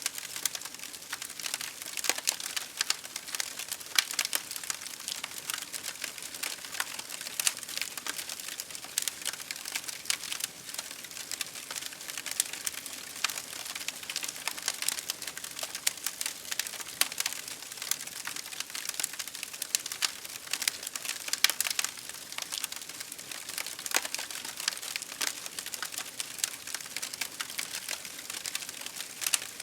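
Wood campfire crackling, with many sharp irregular pops and snaps over a steady hiss of rain.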